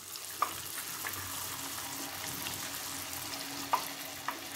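Cornflour-batter-coated carrot pieces sizzling and crackling in hot oil as they are dropped in one by one, with a few sharp clicks along the way.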